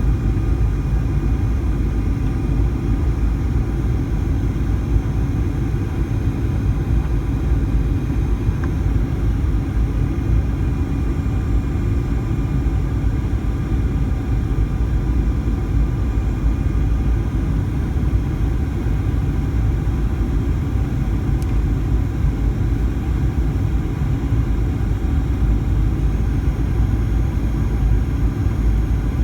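Steady cabin rumble of a Boeing 737-900ER airliner in flight: engine and airflow noise heard inside the passenger cabin, even throughout, with a faint steady whine from the engines above the rumble.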